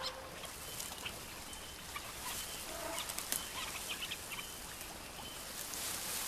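Faint open-air ambience with scattered short bird calls and small clicks.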